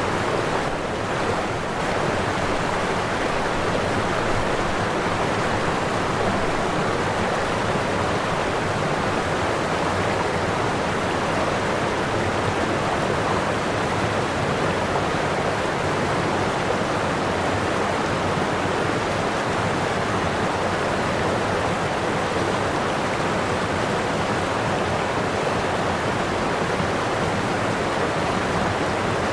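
Waterfall: the steady rushing roar of falling water, unchanging throughout.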